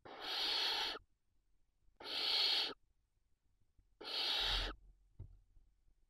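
Barn owl giving three harsh hissing calls, each just under a second long and about two seconds apart, followed by a soft knock.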